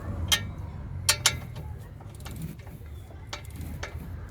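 A few sharp metallic clinks of hand tools and metal parts, the loudest about a third of a second in and two close together just after a second in, over a low steady hum.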